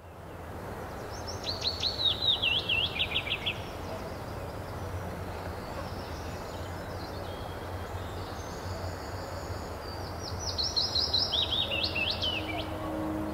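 A songbird sings twice, each song a quick run of chirped notes falling in pitch, over a steady outdoor rush. Soft ambient music fades in near the end.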